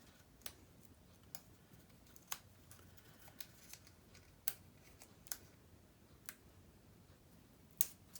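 Scissors snipping paper in scattered single cuts: about a dozen short, faint clicks at uneven intervals.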